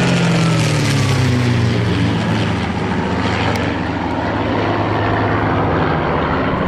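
Spitfire and Hurricane fighters with piston aero engines flying low overhead in a flypast. The engine note drops in pitch over the first two seconds as they pass, then carries on as a loud, steady drone.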